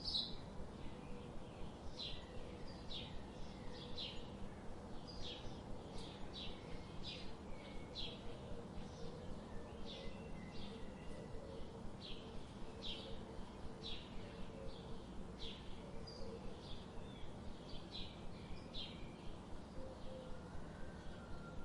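Songbirds calling in short, high chirps, one or two a second, over the steady rush of a river.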